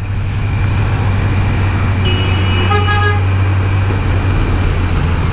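Kawasaki Z900 inline-four engine running under throttle while passing a bus, with road and wind noise on the rider's mic. A vehicle horn honks briefly about two to three seconds in.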